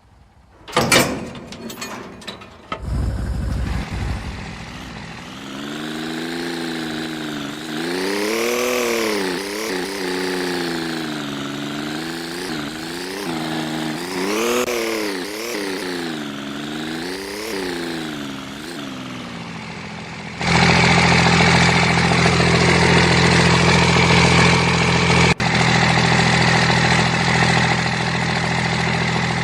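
A motor whines, rising and falling in pitch over and over. About twenty seconds in, an engine starts and runs steadily and louder.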